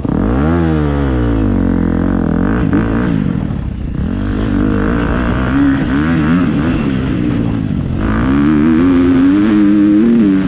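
Motocross dirt bike engine running hard under throttle, its pitch climbing and dropping again and again through gear changes and on and off the throttle.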